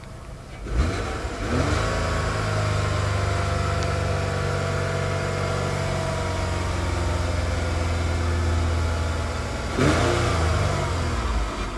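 2002 Ford Taurus's 3.0-litre Duratec V6 revved from idle about a second in, held at a steady raised speed for about eight seconds, then falling back toward idle near the end. It sounds good, even with 144,000 miles.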